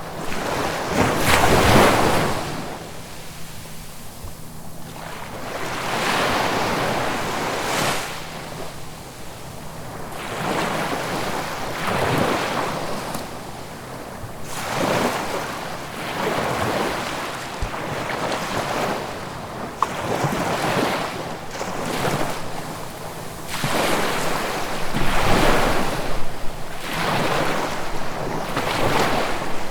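Ocean waves breaking and washing up the shore, coming in repeated surges every two to four seconds, each swelling and then falling away.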